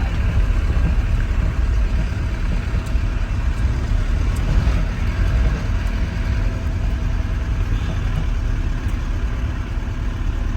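Steady low rumble of a motor vehicle's engine with road noise.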